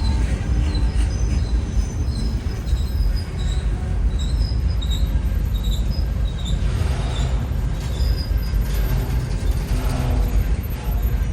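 Indiana and Ohio Railway freight train rolling past, a steady low rumble of wheels on rail, with birds chirping over it.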